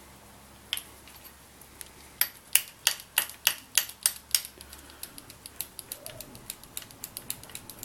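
Hand ratchet wrench clicking as a bolt is turned on the engine: a run of sharp clicks about three a second, then lighter, quicker ticks.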